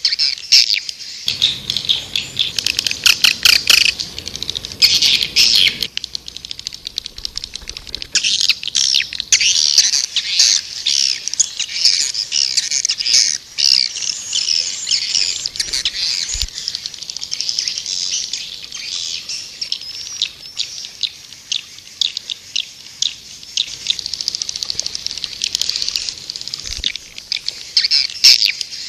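Swiftlet lure call: a dense, unbroken chorus of high, fast twittering chirps and clicking trills, the kind played to draw swiftlets into a nesting house.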